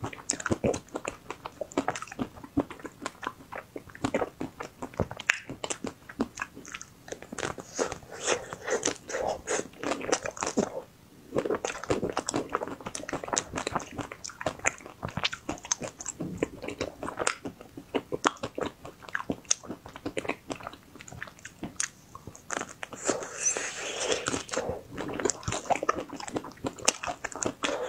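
Biting into and chewing a chocolate-coated ice cream bar close to a lapel microphone: the hard chocolate shell cracks and crunches in a dense run of sharp crackles, with a brief pause about eleven seconds in.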